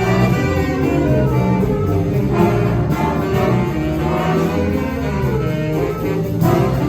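High school jazz ensemble playing, with sustained chords held over a bass line. Near the end a new chord comes in.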